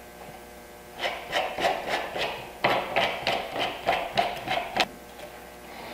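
A quick run of light wooden knocks and taps, about three or four a second, as a dovetail board is seated in a dovetail jig and squared up. The knocks start about a second in and stop shortly before the end.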